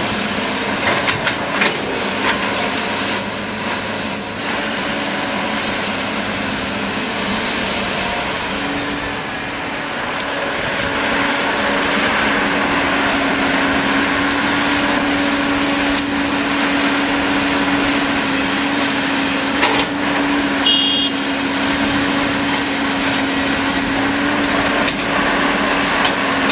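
Diesel engine of a John Deere backhoe loader running steadily, with a steady hum that grows stronger about a third of the way in, and a few scattered clicks and knocks.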